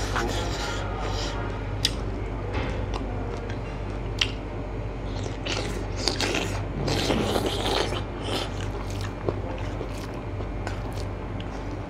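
A person chewing food by mouth with wet smacks and short sharp clicks, while fingers mix rice on a steel plate, over a steady low hum.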